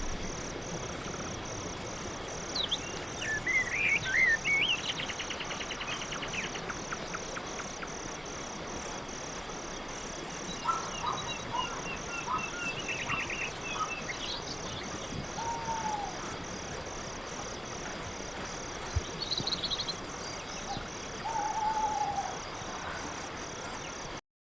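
Crickets chirping in a steady, even rhythm, with scattered short bird calls and chirps over them. The sound cuts off suddenly near the end.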